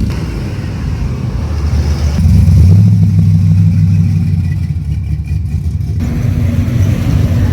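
A car engine running with a deep low sound that grows louder about two seconds in, then changes abruptly again about six seconds in.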